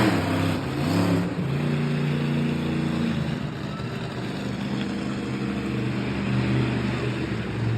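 Monster truck engine revving: its pitch climbs in the first second, holds high for about two seconds, then drops back to a lower, steadier drone.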